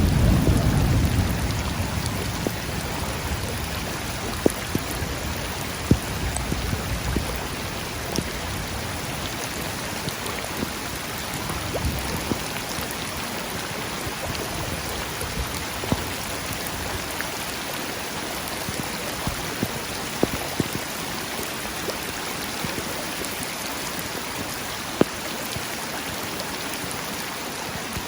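Steady rain falling, an even hiss with scattered sharp drop hits close by. A low rumble of thunder dies away in the first few seconds.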